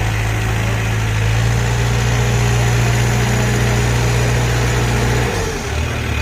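Heavy diesel engine running steadily at idle, its pitch dropping briefly about five seconds in.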